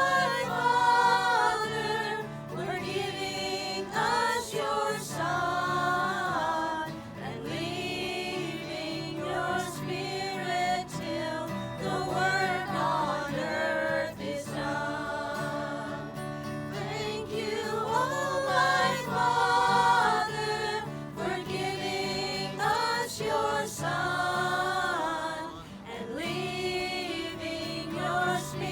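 Voices singing a gospel hymn together, sustained sung lines over a steady low accompanying tone.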